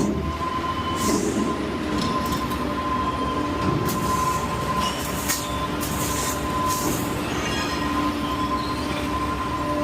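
Rear-loader garbage truck's packer hydraulics running: a steady high whine with a lower hum under it, broken by several metallic clanks and scrapes.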